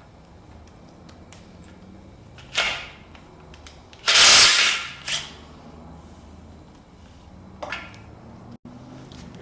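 Engine teardown work sounds: several sharp metal clanks of tools and parts, and about four seconds in, a loud hissing burst lasting under a second.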